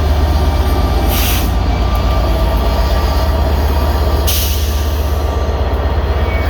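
Diesel train at a station platform: a steady low engine rumble, with two short bursts of high hiss about one second and four seconds in.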